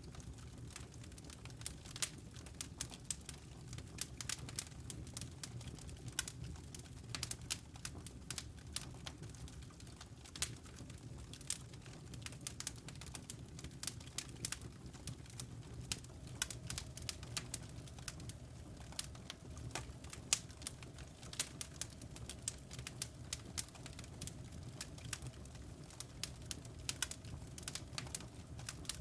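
Fire in a fireplace crackling, with frequent irregular sharp pops over a low steady rumble.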